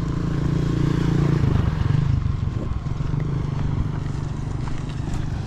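A motor vehicle engine running with a steady hum, briefly louder between one and two seconds in.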